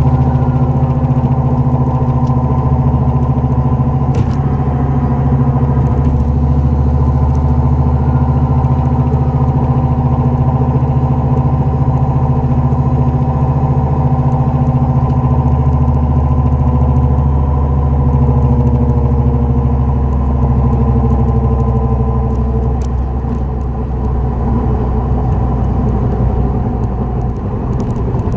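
2004 Dodge Neon SRT-4 moving, with a bad front-wheel bearing giving a steady droning hum under the running noise. The pitch shifts slightly, as a bearing drone does with road speed.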